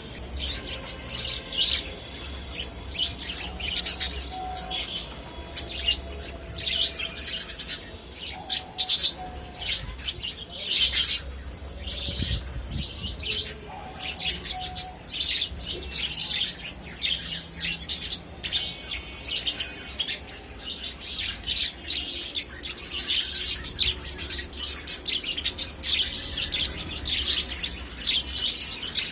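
Budgerigars chirping and chattering: many short high chirps, one after another, over a low steady hum.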